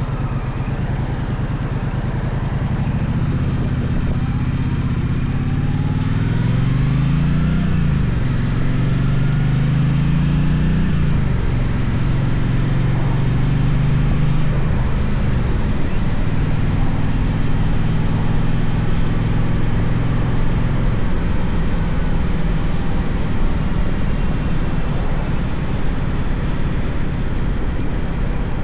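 Gaokin GK1200 motorcycle engine pulling through the gears: its pitch climbs and drops back twice at the upshifts, then holds steady at cruising speed, under constant rushing noise.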